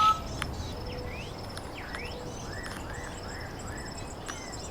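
Birds chirping: scattered short rising and falling notes, including a run of four arching notes around the middle, over steady background noise and a thin high pulsing trill.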